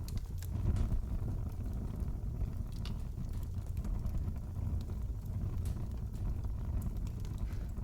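Wood fire crackling in a fireplace: a steady low rumble of burning with scattered small pops and crackles.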